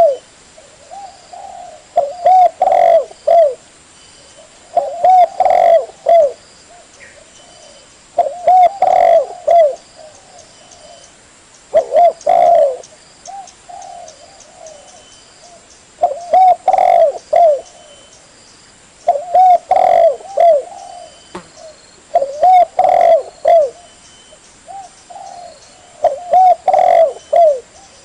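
Spotted dove (tekukur) cooing: a phrase of several short, mellow coos repeated over and over, a new phrase about every three to four seconds.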